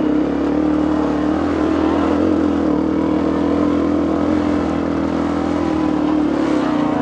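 Dirt bike engine running steadily at an even pitch, close up.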